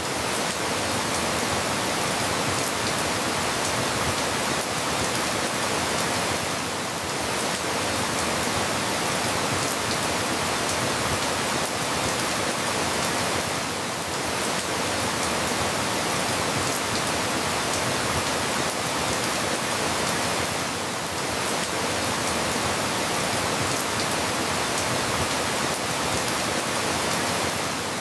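Steady rain falling, an even hiss with fine scattered drop ticks, easing slightly for a moment about every seven seconds.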